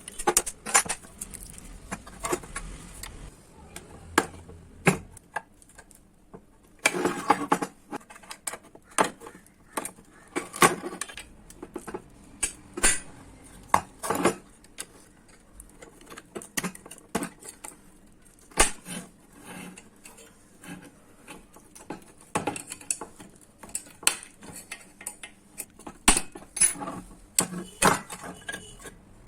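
Irregular metallic clinks, taps and knocks of hand tools working on a microwave oven magnetron as it is taken apart, some in quick clusters.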